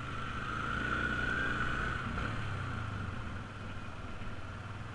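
Yamaha Sniper 150 underbone motorcycle's single-cylinder four-stroke engine running while riding, its note rising slightly in the first second or two and then easing off.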